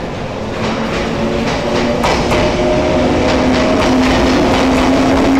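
Electric multiple-unit train pulling into the platform and getting louder as it comes alongside. It makes a steady motor hum with a few held tones, and the wheels click over the rail joints.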